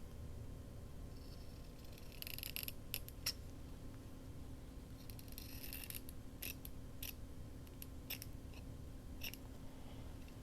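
Scissors snipping fabric: a scattered series of short snips and clicks, with two longer cuts about two seconds in and around five seconds in.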